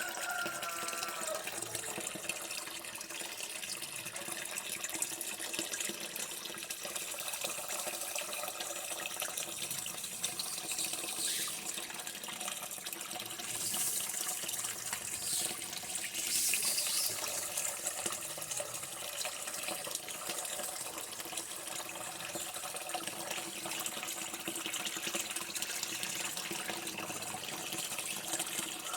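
Water running steadily from a tap and splashing into a sink, a continuous even rush that swells a little about halfway through.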